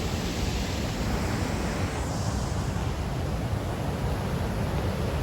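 Steady rush of fast-flowing river water, with a low rumble of wind buffeting the microphone.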